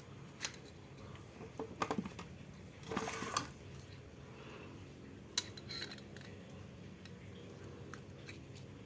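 Scattered light metallic clicks and clinks of small hard parts being handled, thickest about three seconds in, with one sharp click a couple of seconds later, over a steady low hum.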